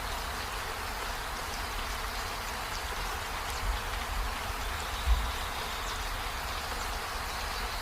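Steady hiss of rain falling on trees and a window. Two brief low thumps come about three and a half and five seconds in.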